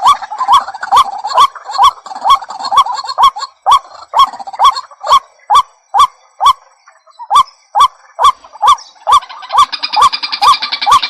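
White-breasted waterhen calling: a monotonous run of short harsh notes, about two a second, with a brief pause a little past the middle. Near the end the calling becomes denser and fuller.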